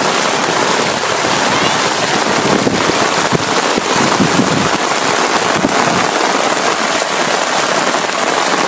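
Heavy rain falling steadily, a dense even hiss, over muddy floodwater running down a flooded street.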